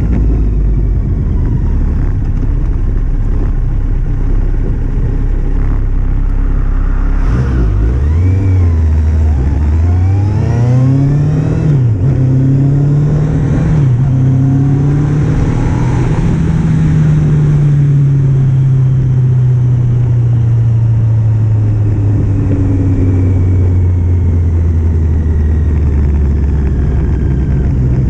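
Kawasaki Z750 inline-four engine under way: it eases off at first, then pulls up through the gears, its pitch climbing and dropping back at each shift, before slowly falling away. Heavy wind rumble on the helmet or bike-mounted microphone.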